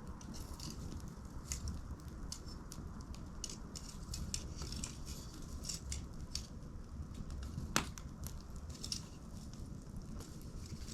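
Wood fire crackling, with irregular snaps and pops over a low steady rumble; one sharper pop about eight seconds in.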